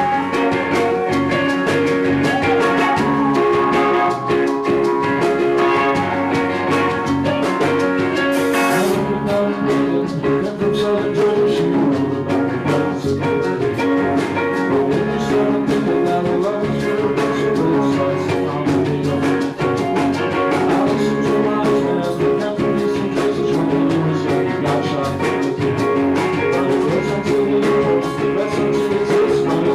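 Live band playing a song with guitars and a drum kit. A short high hiss sounds about eight and a half seconds in.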